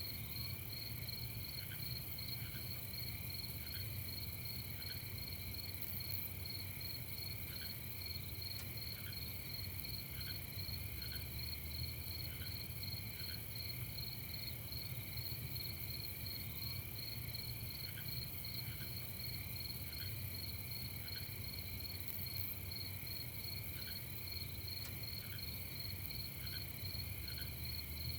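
A night chorus of crickets and other insects trilling steadily and continuously, with short faint chirps every second or so and a low steady rumble underneath.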